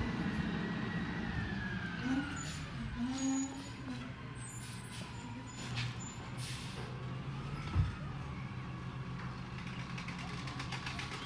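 Peterbilt 320 garbage truck running, a steady low engine hum with a whine that falls in pitch in the first couple of seconds. A short hiss of air comes about six seconds in, a single thump at about eight seconds, and a fine rapid ticking near the end.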